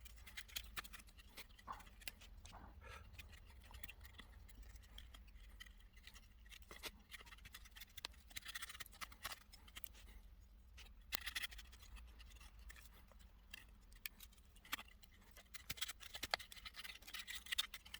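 Knife blade shaving thin curls off a stick of wood to make a feather stick: faint, irregular scraping strokes with sharp little clicks, a few strokes louder than the rest.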